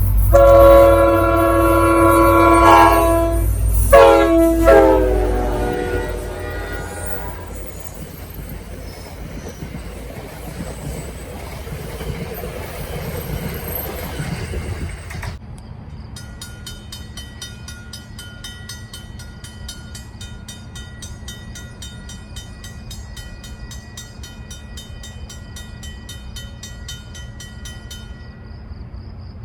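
Train passing with its multi-chime horn sounding loud blasts over the rumble of the locomotive; the horn's chord drops in pitch about four seconds in as it goes by, and the train noise fades away. About halfway through the sound changes abruptly to steady, rapidly pulsing cricket chirping.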